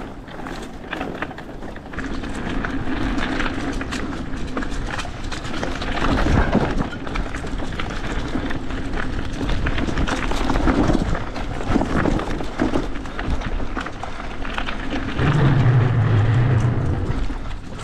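Hardtail mountain bike ridden over a rough, rooty trail: continuous rattling and knocking from the bike and its loaded rear rack over bumps, with tyre and wind noise. A low hum comes in for about two seconds near the end.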